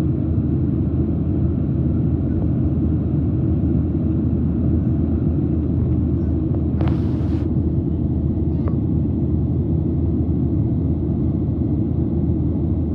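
Steady low drone inside a jetliner's passenger cabin: engine and airflow noise. A brief hiss sounds about seven seconds in, followed by a faint click.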